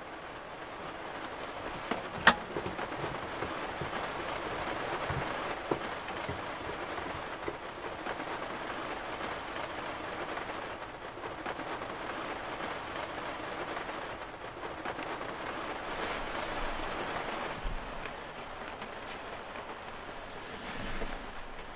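Steady rain falling on a truck camper's shell, heard from inside. A sharp tap sounds about two seconds in, the loudest moment, and a fainter one a few seconds later.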